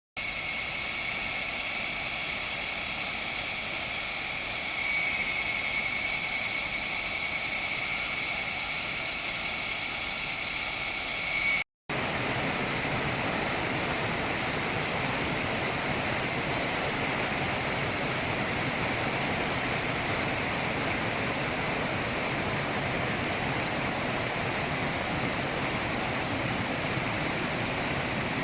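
Waterfall rushing steadily. It breaks off briefly about 12 seconds in and resumes with more low rumble. In the first part a thin, steady high tone sits over the rush.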